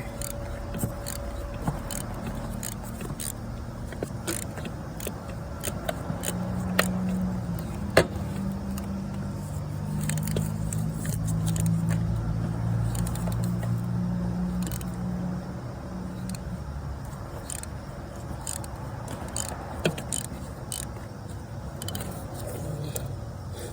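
Irregular metallic clicks, clinks and scrapes of a socket wrench and swivel extension working on the oil pressure sensor, with a sharp knock about 8 seconds in. A low hum swells through the middle and fades again.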